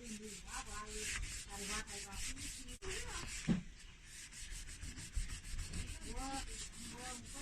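Cloth scrubbing a rubber refrigerator door seal soaked in disinfectant, in quick back-and-forth strokes, several a second.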